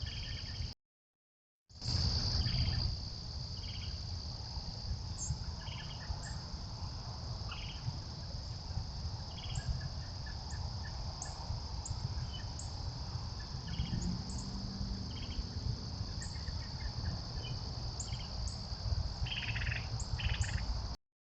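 Steady high-pitched insect chorus, crickets among them, with short chirps now and then. A low rumble lies underneath. The sound drops out completely for about a second near the start.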